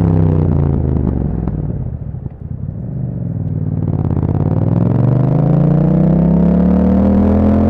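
Yamaha MT-07's parallel-twin engine through an Akrapovic exhaust: the engine note falls and quietens as the throttle closes, with a few pops on the overrun, then climbs steadily as the bike accelerates hard.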